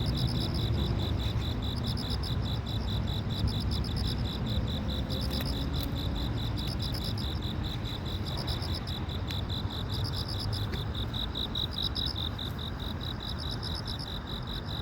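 Insects chirping, most likely crickets: a steady, fast pulsed chirp, with a second, higher call in short bursts about every second and a half, over a low background rumble.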